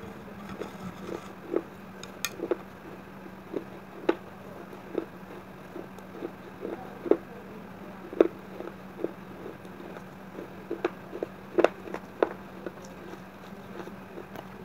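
Close-up chewing of red clay paste with broken baked-clay bits: small, irregular crunches and wet mouth clicks, about two a second, over a steady low hum.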